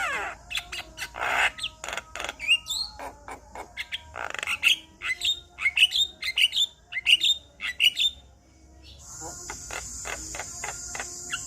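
Male Javan myna singing: a fast, varied run of chattering, squawks and short upward-sliding whistles. Near the end the song drops briefly and then comes back as quick clicking notes over a steady hiss.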